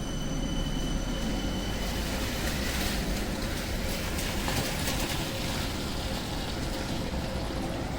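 A city tram passing on a wet street: a thin high whine for the first couple of seconds, then louder rolling wheel noise that peaks around the middle.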